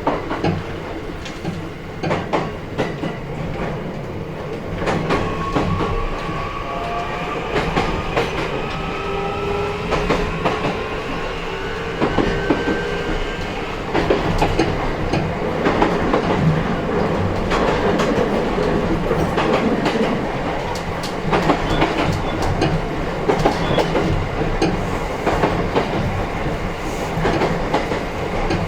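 Running sound inside a JR East E131-1000 series electric train car: wheels rumbling and clicking over rail joints. Between about 5 and 14 seconds in, the traction motors give a thin whine that slowly rises in pitch as the train gathers speed.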